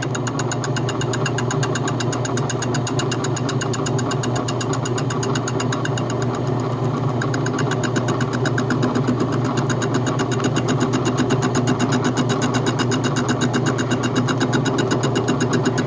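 Small metal lathe running steadily with a steady hum, taking light cuts on a soft bronze engine head plug. A regular fast pulsing in the hum grows more marked about halfway through.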